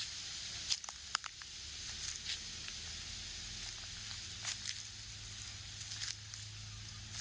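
Footsteps of a person walking, short irregular steps heard over a steady background hiss.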